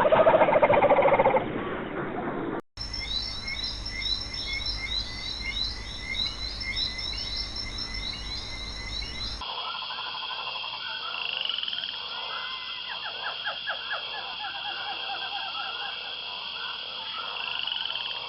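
Frogs croaking in a chorus of rapid repeated calls, over a steady high tone. The sound changes abruptly twice, like separate recordings joined together, after a short loud pitched sound at the start.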